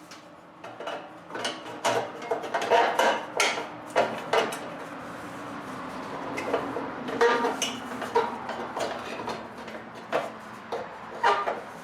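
Sheet-metal muffler guard clattering and scraping against the muffler and exhaust pipe as it is wiggled into place by hand: a run of irregular knocks and scrapes.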